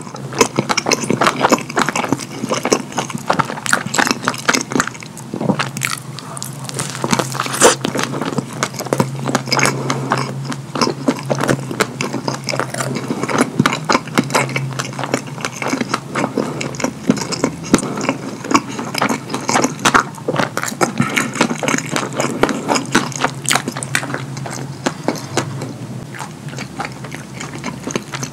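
Close-miked wet chewing and lip-smacking on a double cheeseburger soaked in cheese sauce: a dense run of sticky smacks and small clicks, with a low steady hum underneath.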